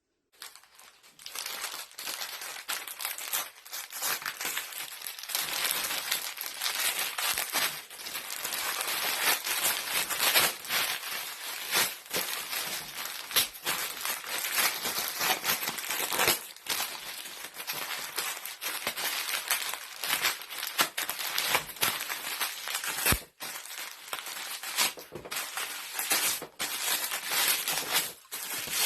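Wrapping paper crinkling, crumpling and tearing in a dense, irregular crackle as a present is unwrapped. It starts about a second in and dips briefly near the end.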